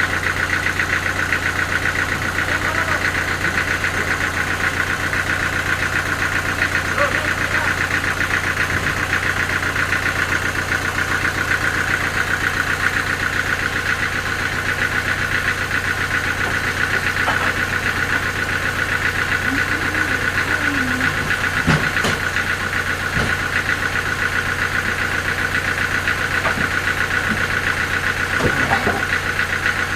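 A sawmill's engine running steadily at one constant speed, with a fast, even pulsing and a steady high whine over the hum. A short sharp knock comes about two-thirds of the way through.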